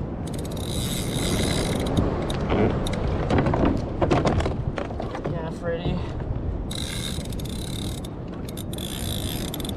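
Fishing reel running with a ratcheting buzz while a hooked fish is fought. It comes in two stretches, about half a second in and again in the last three seconds, with scattered clicks between them.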